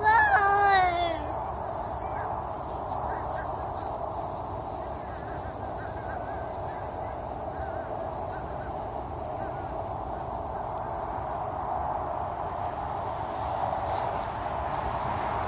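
Insects chirping in a steady high pulse, about four chirps a second, over a continuous background hum. In the first second a short, loud cry falls in pitch.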